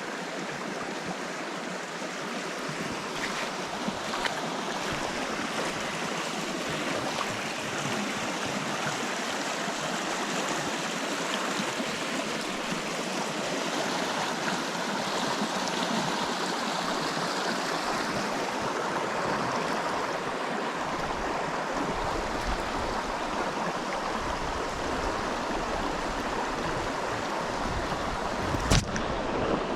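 Steady rushing of stream water. A low rumble joins about two-thirds of the way in, and a single sharp click comes near the end.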